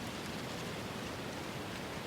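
Steady, even hiss of an outdoor ambience bed, with no distinct events.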